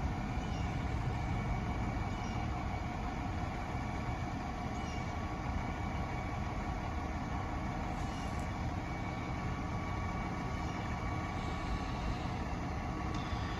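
Side-loader recycling truck's engine idling steadily: a low rumble with a faint steady whine above it.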